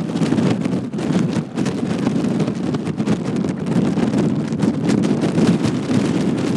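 Wind buffeting the microphone, a steady, loud rumbling flutter with no clear motor tone.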